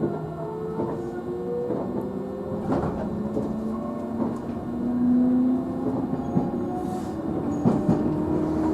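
JR Central 311-series electric train heard from inside its motor car: the traction motors whine and climb in pitch, stepping to a new pitch a few times as the train accelerates. A few sharp rail-joint clacks sound along the way.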